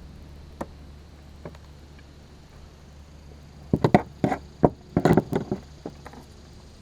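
A burst of about a dozen sharp knocks and clatters over two to three seconds, starting a little past halfway, with two faint single clicks before it: fishing gear being handled and knocked about in a kayak.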